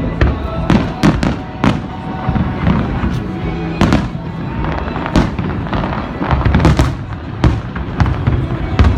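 Aerial fireworks shells bursting, about a dozen sharp bangs at irregular intervals, some in quick pairs. Music plays underneath.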